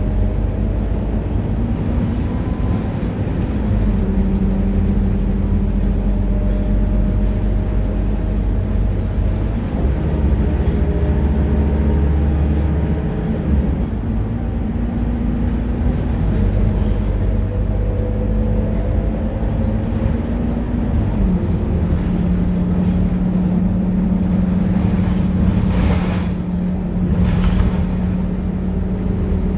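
Scania K230UB city bus's nine-litre five-cylinder diesel engine running under way. Its pitch climbs slowly and then drops back in steps several times as the automatic gearbox shifts up. Near the end come a couple of short hisses.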